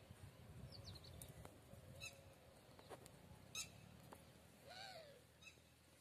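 Faint bird calls: a few short, high chirps and one short arching call about five seconds in, over a low rumble.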